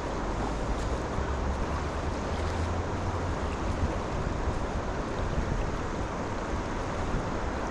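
River water rushing steadily, with a low rumble of wind on the microphone.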